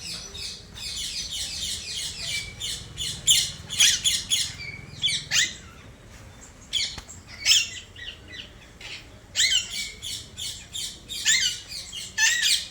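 A group of rose-ringed parakeets calling in quick, overlapping shrill squawks. The calls thin out for a few seconds around the middle, then pick up again.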